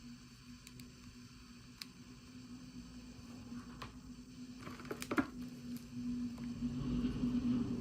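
Hands handling miniature toy packaging: scattered small clicks and taps, with a brief cluster of rustling and clicking about five seconds in, over a steady low hum.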